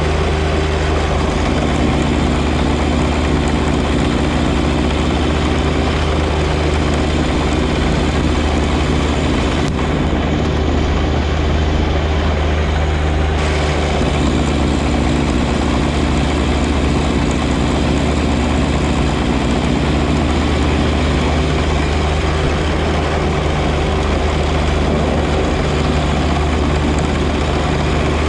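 John Deere 1025R compact tractor's three-cylinder diesel engine and 54-inch front snow blower running steadily: a constant low engine drone under a steady rushing hiss.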